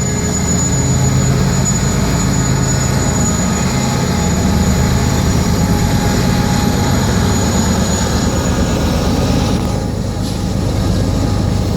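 BNSF freight train's diesel locomotives running steadily as the train crosses a trestle, a loud low engine drone with a faint high whine over it for the first eight seconds or so.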